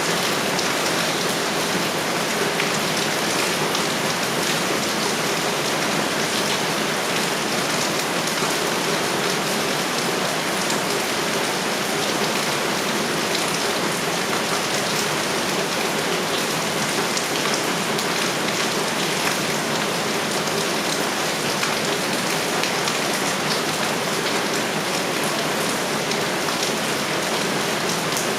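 Heavy rain falling steadily: an even, dense hiss with the patter of drops.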